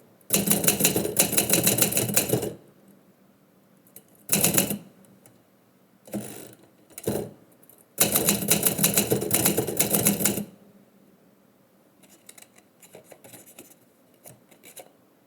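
Typewriter keys striking in quick runs, with short pauses between runs and a longer lull near the end where only faint light clicks remain.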